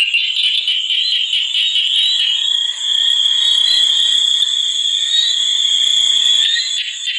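Dense chorus of calling animals: a steady, high-pitched pulsing trill, loud throughout, which changes character and dips a little near the end.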